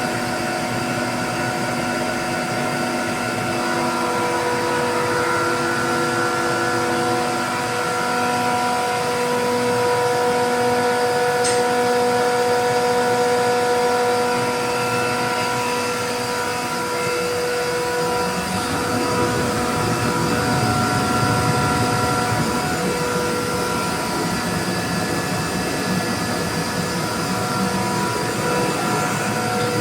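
A 15 kW (20 HP) base-mounted rotary screw air compressor running, a steady machine hum with several held tones. About eighteen seconds in, the deeper part of the sound shifts and turns rougher.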